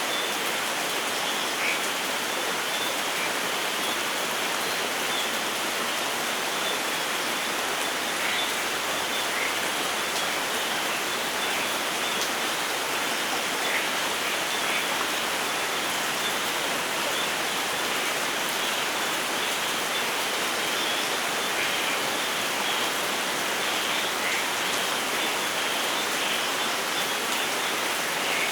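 Steady rain falling, an even hiss of water with a few single drops striking close by now and then.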